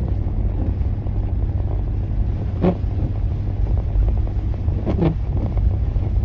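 Steady low rumble of a vehicle's engine and road noise heard from inside the cab, with two brief sharp sounds, one under three seconds in and one about five seconds in.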